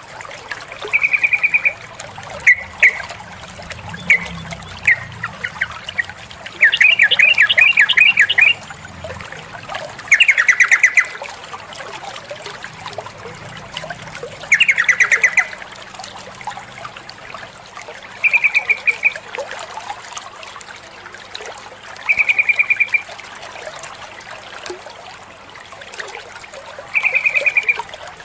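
Female yellow-vented bulbul (trucukan) giving short, fast chattering trills about every three to four seconds, with a few single chips between them and a longer chatter burst a quarter of the way in. Water trickles steadily behind the calls.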